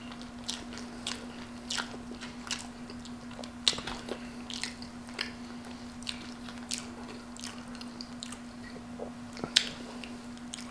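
Close-up chewing and wet mouth smacking on Wendy's Baconator fries covered in cheese sauce and bacon: a scattered run of short, sharp clicks, over a steady low hum.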